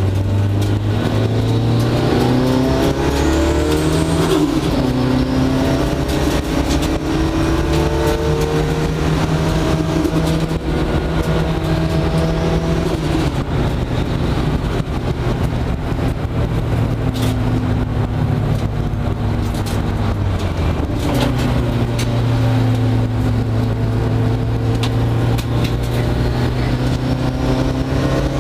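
Mitsubishi Lancer Evolution VIII race car's turbocharged four-cylinder engine heard from inside the cabin, driven hard on track. Its pitch climbs under acceleration and drops at gear changes and lifts, with stretches of steady running between.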